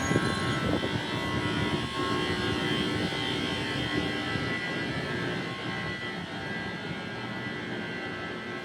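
Train running past with a steady rumble and a few held tones, slowly fading as it moves away.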